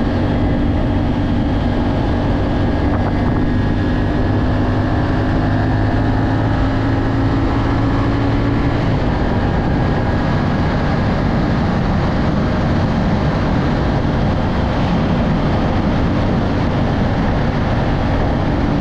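CFMoto CL-C 450's 449cc 270-degree parallel-twin engine running steadily while the bike is ridden, mixed with wind and road noise.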